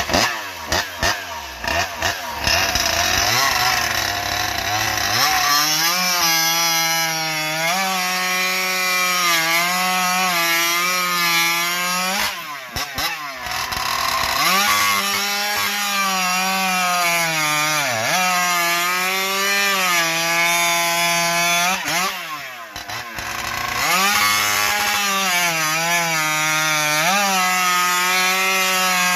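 Ported Stihl MS 661 chainsaw with a tuned expansion-chamber exhaust pipe running at full throttle, cutting slices from an Engelmann spruce log. Its pitch sags under load in the cut and climbs again when the chain frees up, and it briefly comes out of the wood twice between cuts.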